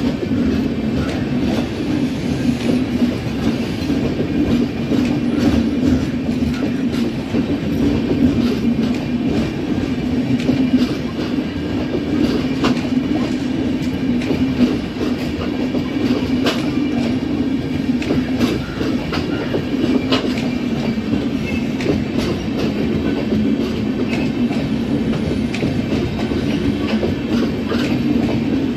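Express train's passenger coaches rolling past on the track: a steady rumble of wheels on rail, broken by irregular sharp clicks as the wheels pass over rail joints.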